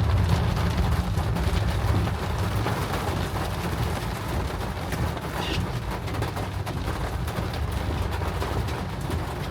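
Heavy tropical rain pattering on a moving car, lots of fine ticks over a steady low rumble of the car and the wet road.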